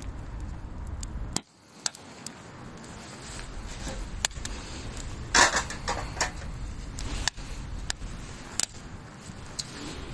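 Wood campfire crackling, with irregular sharp pops over a low wind rumble on the microphone and a louder short noisy burst about five seconds in.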